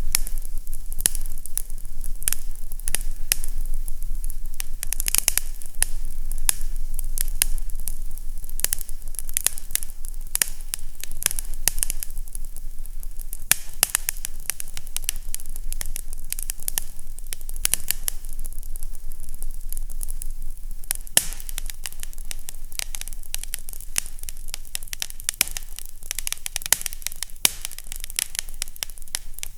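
Fireplace fire crackling: dense, irregular pops and snaps over a steady hiss, with a low hum underneath.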